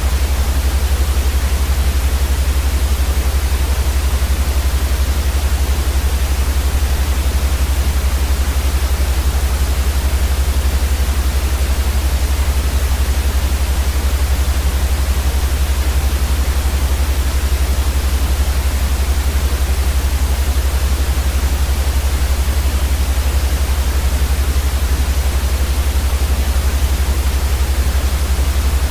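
Steady white noise for sleep: a constant, even hiss with a heavier low rumble underneath, unchanging throughout.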